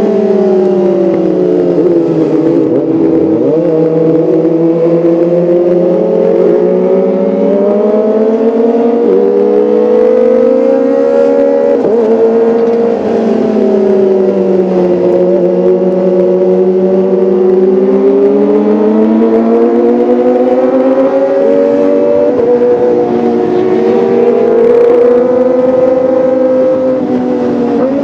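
Kawasaki ZX-25R inline-four engine running, its pitch rising and falling slowly over several seconds as the revs change.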